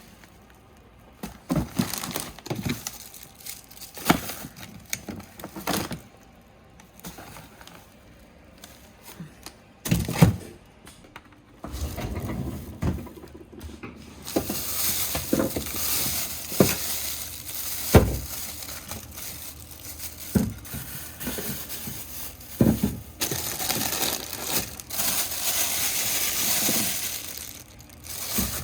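Food packages and containers being handled: plastic crinkling and rustling with scattered knocks and clatters. About halfway through a steady hiss starts and runs on until near the end.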